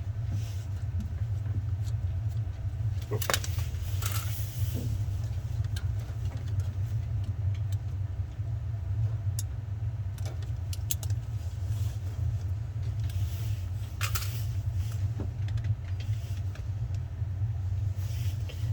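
Small metallic clicks and scrapes from a flathead screwdriver working a thermostat wire's terminal screw on a furnace control board. They come at scattered moments over a steady low hum.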